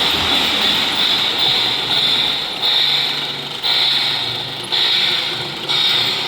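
Model Chessie Steam Special steam locomotive and passenger cars running on a layout, a steady mechanical whirr and rattle that swells and fades about once a second.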